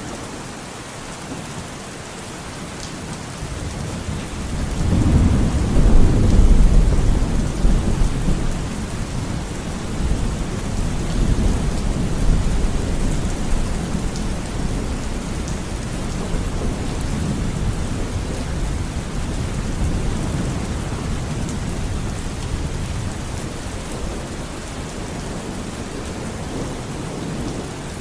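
Steady heavy rain hissing, with a long roll of thunder that swells about four seconds in, is loudest a few seconds later and then rumbles on more faintly.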